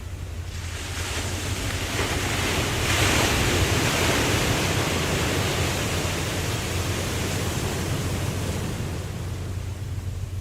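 An ocean wave surging in and washing out: a rushing swell that builds over the first few seconds, then slowly dies away, over a steady low rumble.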